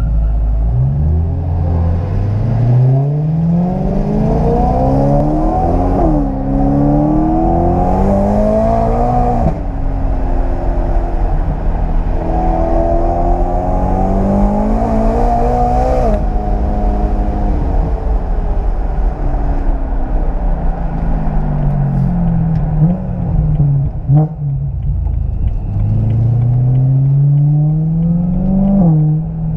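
Car engine heard from inside the cabin, accelerating hard through the gears: its pitch climbs and drops sharply at each upshift, about six, nine and sixteen seconds in. It then winds down as the car slows and climbs once more near the end.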